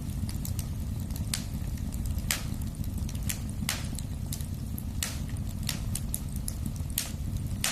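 Wood fire burning in a fireplace: a steady low rumble of flames with irregular sharp crackles and pops, about one a second.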